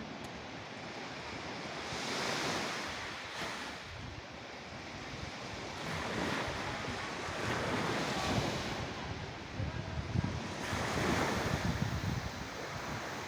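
Sea waves breaking and washing in, swelling and falling away every few seconds, with the loudest surges near the end.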